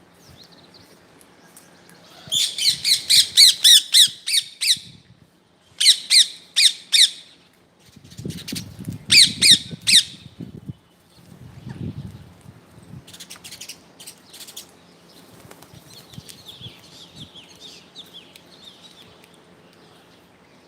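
Parrot squawking in harsh, rapid runs of calls, about four a second: a long run, then two shorter ones, then fainter calls later. Between the later runs there is a low rustling scuffle.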